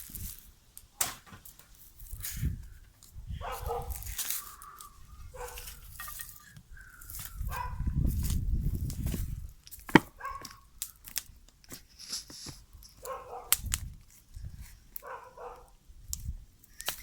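A dog barking in a few short bouts, with low rumbling noise and sharp cracks between them, the loudest crack about ten seconds in.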